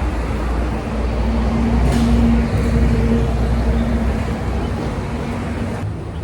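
Road traffic: a steady low rumble with a vehicle engine's even hum over it, which drops away near the end.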